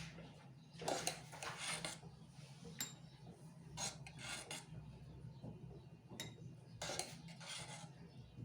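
Metal spoon scraping and clinking against a bowl and glasses as a creamy mixture is spooned into serving glasses: a few short scrapes with a couple of sharp clinks between them.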